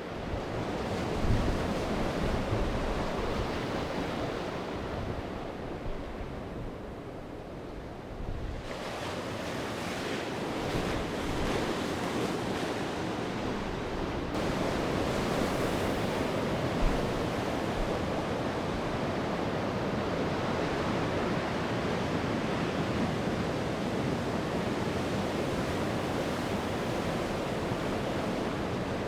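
Sea waves breaking and washing up the shore, a continuous surf wash; a fresh wave breaks about a third of the way in and the surf then stays full and steady.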